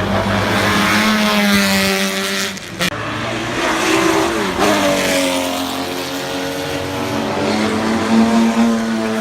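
Classic racing cars passing at speed on a circuit. Several engines run hard, their pitch rising and falling as the cars go by.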